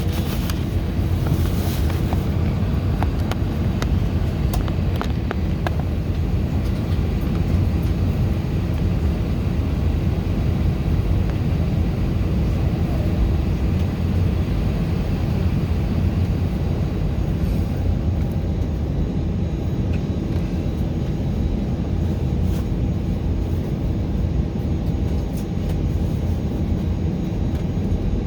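Steady low rumble of an Airbus A319's cabin on the ground before takeoff, with a constant hum running through it and a few faint clicks in the first seconds.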